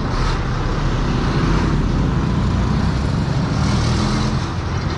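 A motor vehicle engine running steadily, with road traffic noise.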